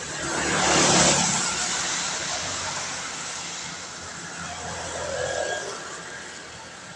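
A vehicle passing on a wet road, its tyres hissing through the water, loudest about a second in and then fading away. A smaller second swell comes about five seconds in, over a steady background hiss of rain.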